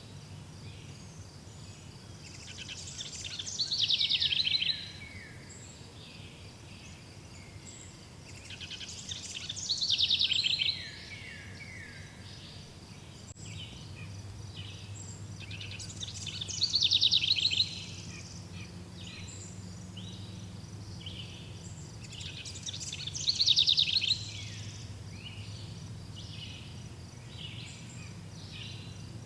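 A bird sings a loud trilled phrase with falling notes four times, about every six to seven seconds. Insects chirr steadily and rapidly in the background.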